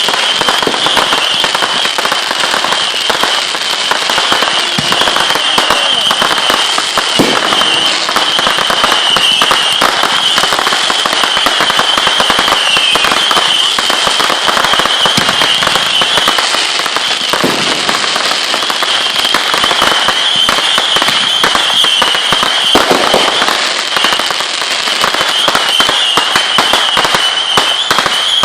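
Fireworks crackling and popping densely and without a break, many small reports running together, over a steady high-pitched whine.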